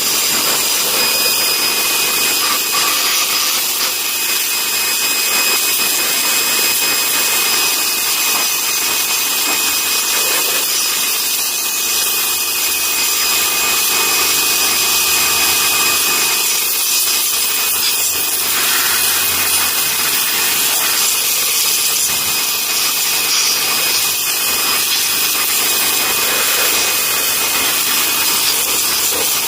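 High-pressure washer running steadily, its water jet hissing against a metal engine part and blasting off paint softened by paint remover, with a few steady high whining tones underneath.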